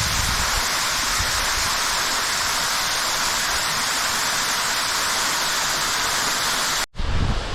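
Hakuun Falls, a waterfall on the Fujiki River, pouring in a steady, loud rush of falling water. Near the end the sound breaks off abruptly and a lower, gusty rumble starts.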